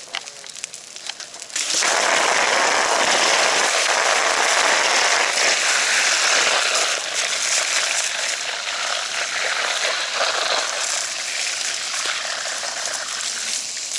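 Fire hose nozzle spraying water: a rushing hiss that starts suddenly about a second and a half in, once the line is charged, and then runs steadily.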